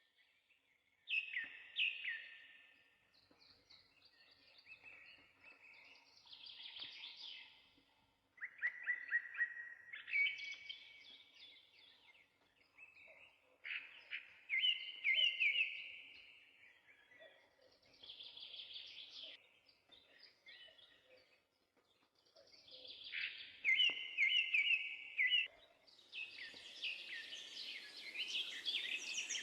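Songbirds singing, one phrase of quick repeated chirps every few seconds, with short pauses between. A steady hiss comes in a few seconds before the end.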